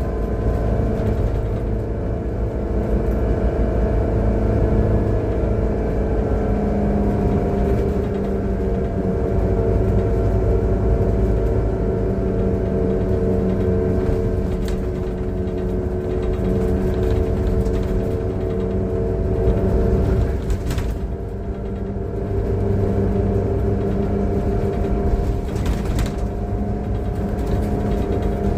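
Transperth city bus engine and drivetrain heard from on board while under way: a steady drone with several held tones and a pulsing hum, easing slightly in pitch a few seconds in, with two brief clicks near the end. The uploader calls it a bad engine sound.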